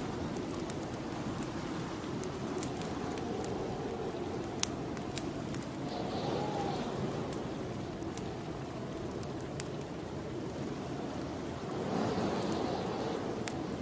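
Snowstorm wind blowing steadily outside, swelling in two gusts, about halfway through and again near the end, over a fireplace's wood fire crackling with scattered small pops.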